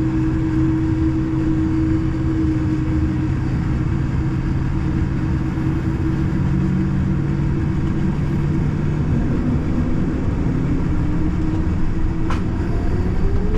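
Boeing 787-9 cabin sound: steady engine hum over a low rumble. Near the end the engine pitch begins to rise as thrust comes up for takeoff, just after a single click.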